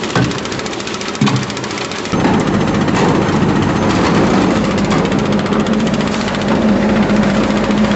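Construction machinery engines running, with a fast rattle at first; about two seconds in a louder, lower engine sound comes in and holds a steady hum.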